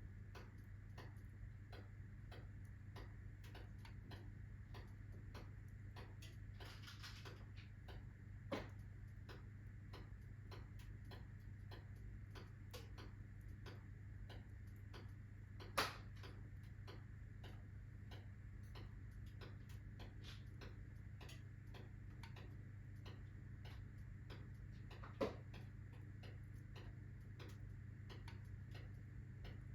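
Wood fire of alder, birch and oak logs crackling in a fireplace: a steady stream of faint small ticks, with three louder pops, the loudest about halfway through. A low steady hum runs underneath.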